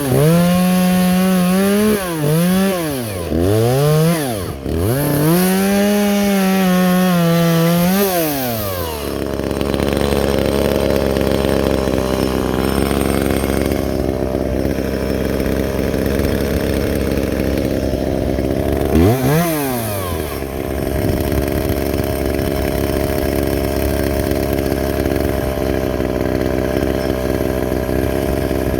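Chainsaw revved up and down several times, then held at steady full throttle, cutting into wood. About two-thirds of the way through the revs briefly drop and rise again.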